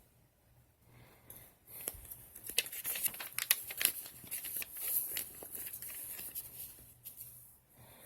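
Paper crinkling and rustling as the pages of a printed instruction manual are handled and turned. The rustling is a run of quick, sharp crackles that starts about two seconds in and dies away near the end.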